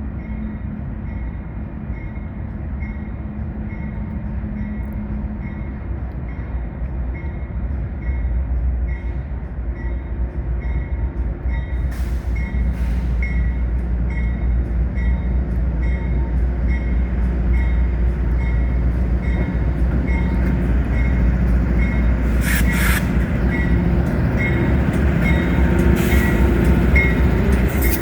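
CSX freight train rolling slowly past: a steady low rumble that grows louder, with brief high wheel squeals about halfway through and again near the end.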